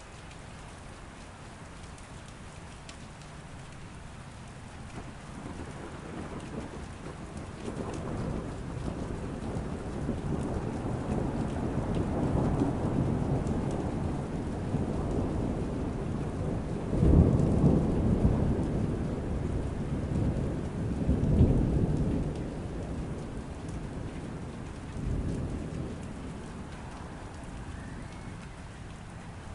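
Steady rain falling, with a long roll of thunder. The thunder builds after several seconds, rumbles loudest twice past the middle, swells once more, then dies away, leaving the rain.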